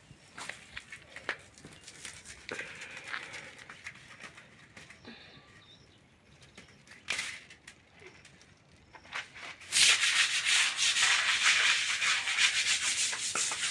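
A few light knocks and scrapes, then from about ten seconds in, loud, fast, steady scrubbing of a hard surface with many rapid strokes.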